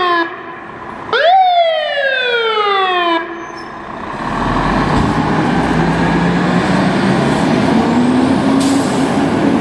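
Fire truck siren giving a short wail that rises sharply and falls away over about two seconds, just after the tail of the previous one; it stops about three seconds in, leaving the truck's engine and road noise running steadily.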